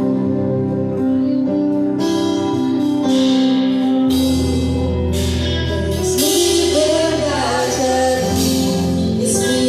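Live gospel worship music from a church band: sustained instrumental chords, with bass coming in about four seconds in and a voice starting to sing over cymbal wash from about six seconds in.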